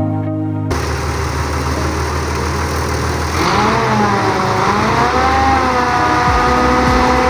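Bedford truck engine running, then revved about halfway through: its pitch rises and wavers before settling to a steady note. Guitar music cuts off abruptly right at the start.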